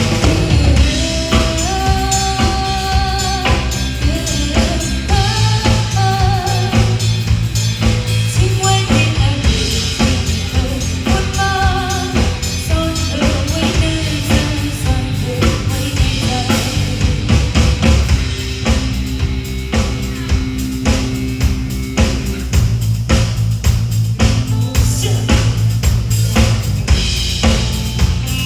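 Live band playing a song with a steady beat: drum kit with bass drum and snare under bass and a melody line.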